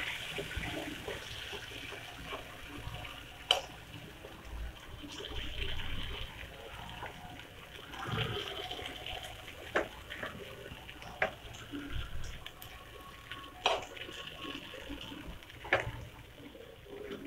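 Grated-potato and besan batter sizzling in hot mustard oil in a pan as it is spread out with a steel spoon. The spoon clicks against the pan several times.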